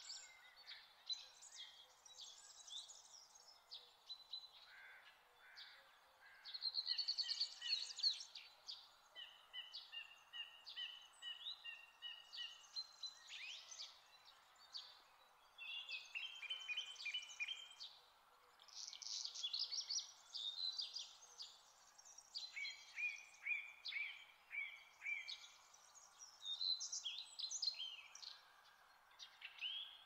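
Songbirds singing, several overlapping songs of varied phrases: quick trills, sweeping notes and runs of repeated whistled notes, over a faint steady background hiss. The loudest phrase, a fast trill, comes about a quarter of the way in.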